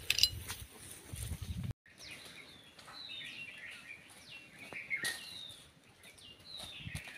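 Small birds chirping and twittering, a run of short calls that fall in pitch, repeated every second or so. Before them, for about the first second and a half, a low rumble on the microphone cuts off suddenly.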